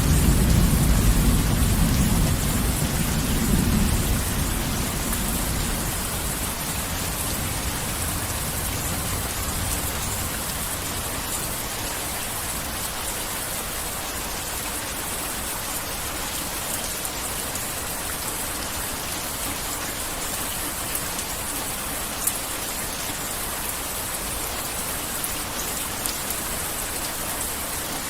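Heavy rain falling steadily, with a low rumble of thunder that dies away over the first five seconds or so.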